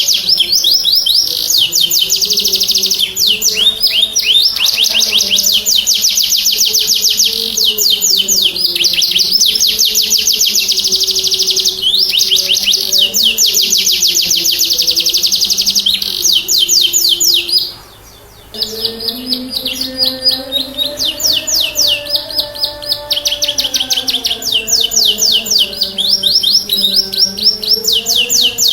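Domestic canary singing in full song: long phrases of very rapid trills and rolls, broken by short pauses. The song stops for about a second roughly two-thirds of the way through, then carries on.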